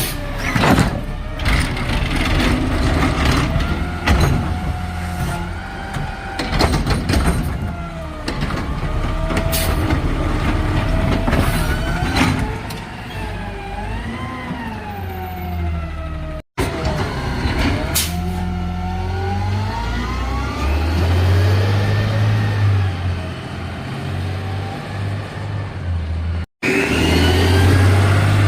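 Garbage truck engine revving up and down repeatedly, with scattered knocks and clatter and air-brake hisses; the sound cuts out abruptly twice.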